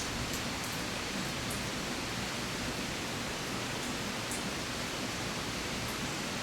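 Steady rain falling, heard as an even hiss, with a few faint sharp drip ticks, the clearest right at the start and about four seconds in.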